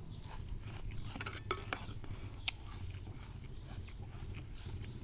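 A person chewing a mouthful of noodles, with irregular soft wet mouth clicks.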